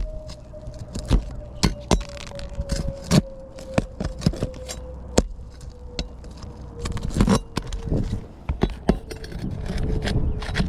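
Repeated sharp clinks and scrapes, like metal parts or tools being handled, over a steady hum that slowly falls in pitch.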